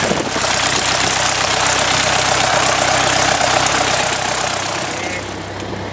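Light aircraft's piston engine and propeller idling on the ground: a steady low engine hum under a loud, even hiss that eases off about five seconds in.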